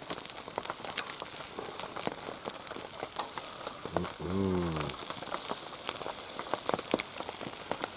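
Chicken sizzling as it cooks over a campfire: a steady hiss with frequent small crackles and pops. A short hummed or voiced sound comes about four seconds in.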